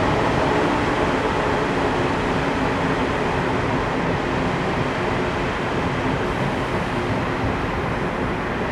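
Taiwan Railways electric passenger train rolling past the platform: a steady rumble of wheels on rail with a faint hum, easing off slightly.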